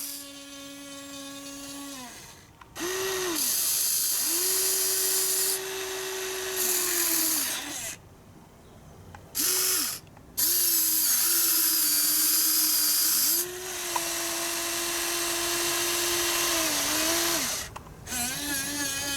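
Small electric motors of a Huina RC excavator whining in stretches of a few seconds, the pitch bending up as each movement starts and down as it stops, with short pauses between movements.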